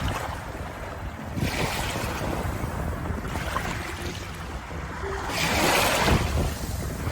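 Ocean waves washing ashore: a steady rush of water that swells twice, the second surge, about six seconds in, the loudest.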